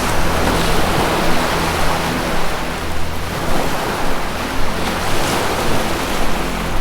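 Ocean waves washing in a steady surf, swelling and easing slightly. Beneath them is a low, sustained drone of relaxation music.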